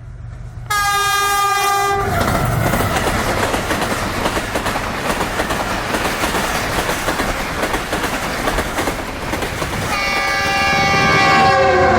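HGMU-30R diesel locomotive's horn sounds for about a second, followed by the loud rumble and clatter of the train running over the rails. Near the end the horn sounds again, longer, with its pitch dipping slightly as it goes on.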